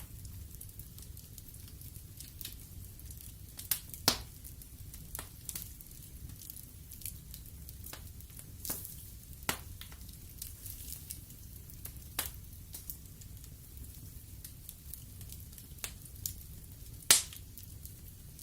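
Wood fire burning in a fireplace: a steady low rumble and hiss of the flames with irregular sharp crackles and pops of the burning logs, the loudest pops about four seconds in and near the end.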